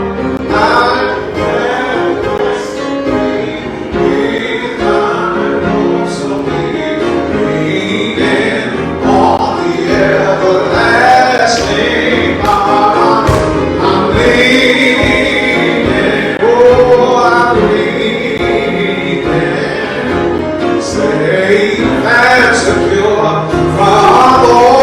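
Gospel choir singing with instrumental accompaniment and a steady beat, growing louder near the end.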